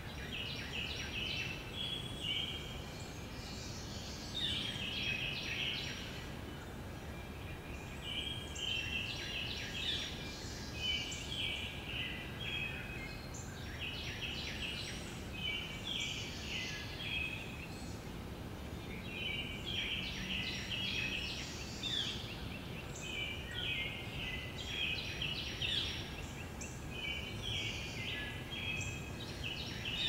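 Songbirds singing in short, quick phrases that recur every few seconds, over a steady low background hiss.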